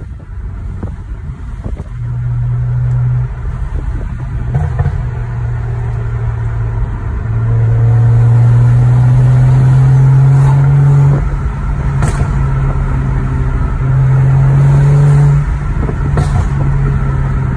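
BMW N55 3.0-litre turbocharged inline-six with a straight-piped exhaust, heard from inside the cabin while driving, its drone swelling louder in pulls under throttle. Two sharp pops from the exhaust, about twelve seconds in and again near the end, come as the throttle eases: the burbles of the MHD stage 2+ tune.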